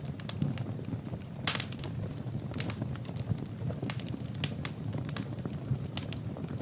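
Wood fire burning in a fireplace: irregular sharp crackles and pops over a low, steady rumble of flame, with a louder cluster of pops about a second and a half in.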